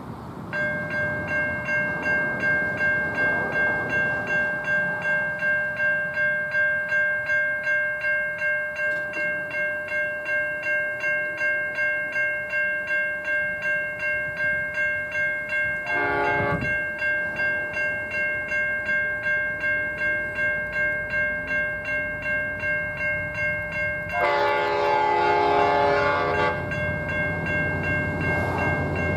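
Level crossing electronic bells (Safetran Type 3 e-bells) ringing at a steady rhythm of about two to three strokes a second as the crossing activates. A train horn sounds once briefly about halfway through and again longer a few seconds before the end, and the low rumble of the approaching train rises near the end.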